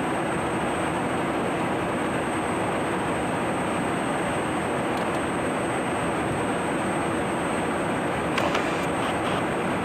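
Steady jet engine noise from a Dassault Rafale fighter, an even rush with a thin high whine over it and a couple of brief clicks about eight seconds in.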